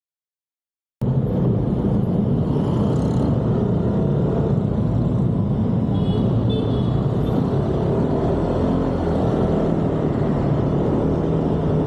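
Dead silence for about the first second, then the steady rumble of a vehicle on the move, engine and road noise together, with no crash heard.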